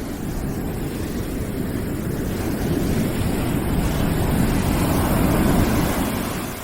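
Rushing noise from a white-noise track, deep and even, that swells for a few seconds and then falls away near the end, like a wave washing in.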